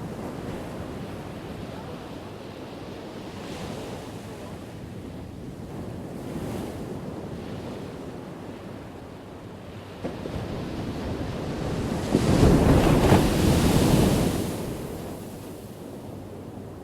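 Ocean waves breaking on a shore, a steady wash of surf with small swells, then a bigger wave crashing about three-quarters of the way through, the loudest moment, before it fades back.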